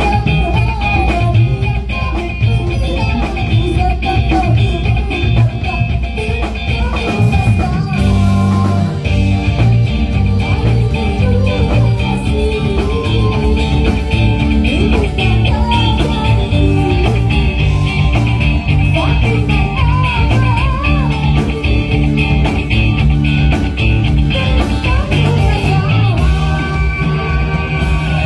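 A band playing a rock-style song through a PA system during a sound check, with heavy bass and drums, guitar and a singing voice.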